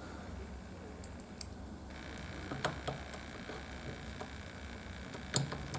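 A few sharp clicks and taps of a small screwdriver on laptop hinge screws, over a steady low electrical hum. The clicks are spread out, with two close together near the end.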